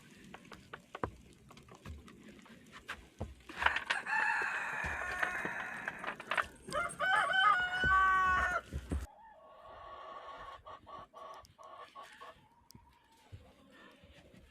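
A rooster crows twice, first a hoarse, raspy crow and then a clearer pitched one that cuts off abruptly about nine seconds in, with a few light knocks before and faint hen clucking after.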